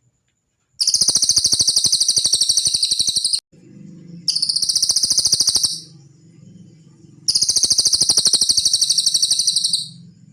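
Cililin bird song: three long, very high, rapid buzzy trills, the middle one shorter, separated by short pauses.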